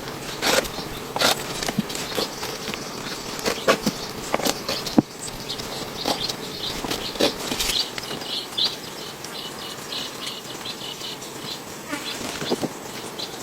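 Scattered sharp knocks and cracks, loudest in the first few seconds. Through the middle an insect calls in rapid, short, high-pitched pulses.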